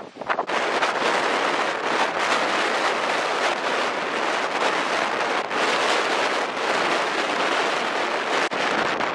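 Strong windstorm gusts of about 45-50 mph blowing hard across the microphone: a steady, dense rush of wind noise with rough surf on the shore beneath it.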